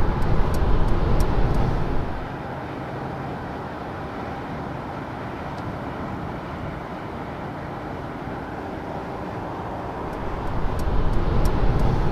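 Road and wind noise inside the cabin of a 2021 Mercedes-Benz S580 at autobahn speed. The low rumble drops away about two seconds in and returns near the end, with a few light ticks at the start and again near the end.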